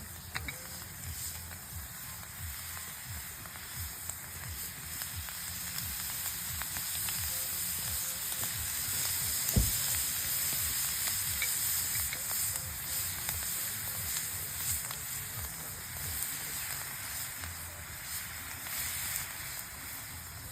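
Food sizzling as it fries, a steady crackling hiss that swells a little in the middle. There is a single sharp knock just under halfway through.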